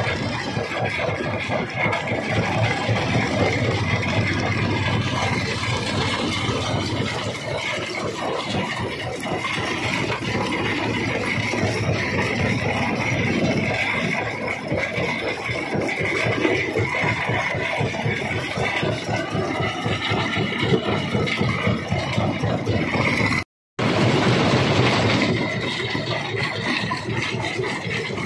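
Jaw rock crusher running and breaking stone: a loud, continuous mechanical din with a dense clatter of small knocks and a faint steady whine. The sound breaks off for a split second near the end, then carries on.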